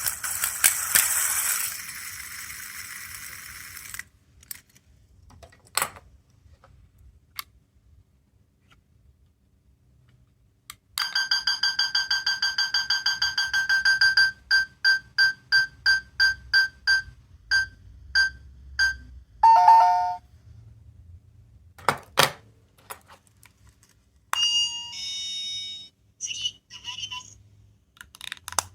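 Small electronic sound-making capsule toys being played, with button clicks in between. First comes a noisy burst, then a rapid electronic ringing that breaks into slower separate pulses, then a falling two-note chime like a doorbell, and near the end a few short beeping melody phrases.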